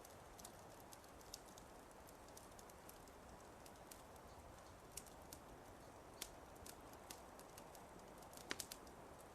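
Faint crackling wood fire in a fireplace: a soft steady hiss with irregular sharp pops and snaps, a quick cluster of louder pops near the end.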